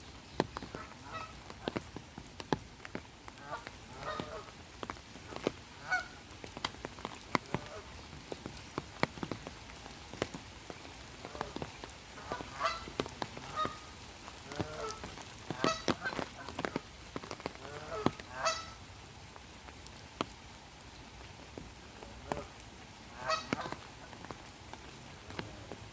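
Geese honking on and off, several calls in a row now and then, over the steady patter of raindrops falling sharply on the water.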